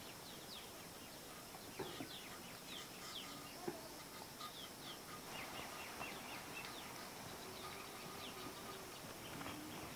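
Faint outdoor ambience of small birds chirping in quick, short, downward-sliding notes, with a couple of soft clicks.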